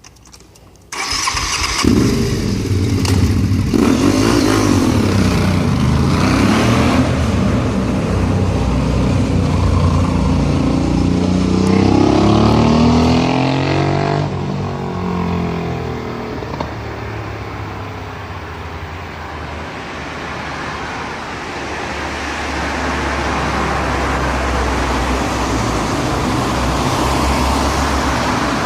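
Aprilia Shiver 750's V-twin engine with an Arrow aftermarket exhaust starting up about a second in, then running with the revs rising and falling. The note settles lower and steadier about halfway through.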